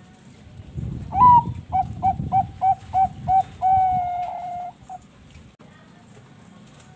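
Zebra dove (perkutut) singing one song phrase: a higher opening note, a run of about seven short coos evenly spaced, then one long held coo and a last short note.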